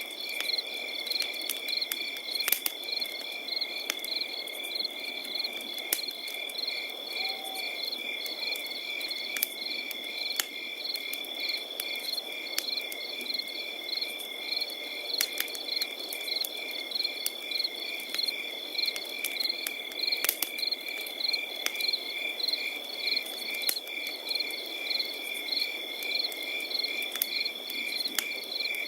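Crickets chirping in a steady, rapidly pulsing chorus, with the irregular crackles and pops of a wood campfire.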